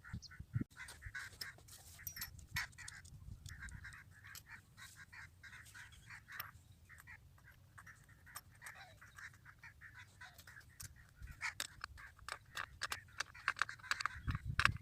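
Birds calling: a busy chatter of short, repeated calls, with a faint low hum beneath.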